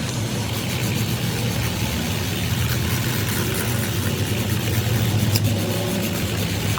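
An engine running steadily with a low hum, under a constant noisy wash.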